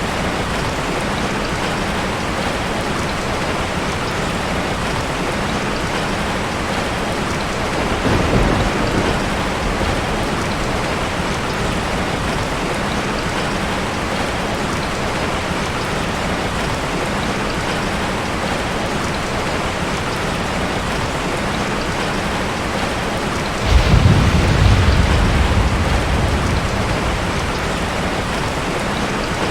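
Steady rain hissing, with a short low rumble of thunder about eight seconds in and a louder, longer roll of thunder a little after twenty seconds that slowly fades.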